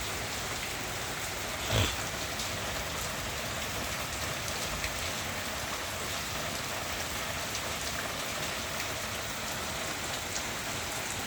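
Heavy rain falling steadily, a dense hiss of drops pattering on surfaces, with one short thump about two seconds in.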